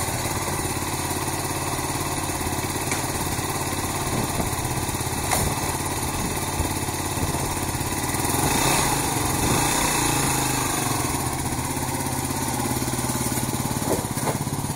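Yamaha WR250R dual-sport motorcycle's single-cylinder four-stroke engine running at idle, then revved up for about two seconds partway through as the bike is ridden up a loading ramp into a pickup bed.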